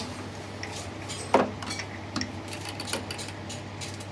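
Metal parts and tools clinking and knocking against each other during work on a small engine, with one louder knock about a second and a half in, over a steady low hum.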